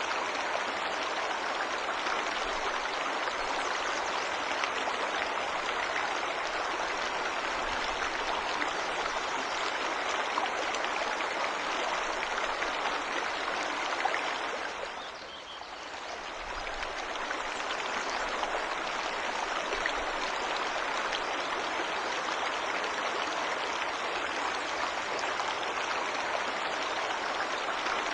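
Waterfall's rushing water, a steady, dense hiss that briefly fades and returns about halfway through.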